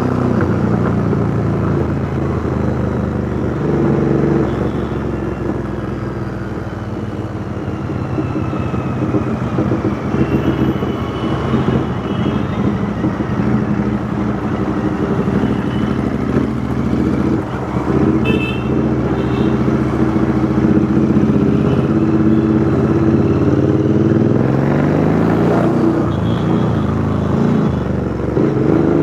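Royal Enfield Interceptor 650's parallel-twin engine running through a custom 2-into-1 exhaust while riding in city traffic, its note rising and falling with the throttle and climbing in pitch as it accelerates near the end.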